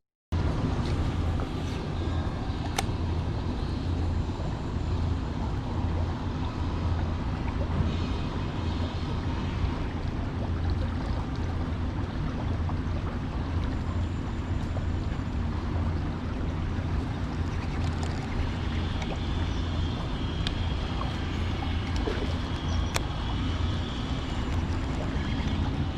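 Steady low rumbling outdoor noise with a few faint clicks.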